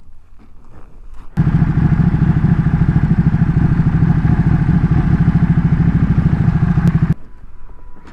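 Motorcycle engine running loudly with a fast, even exhaust pulse. It cuts in abruptly about a second and a half in and cuts off just as abruptly near the end.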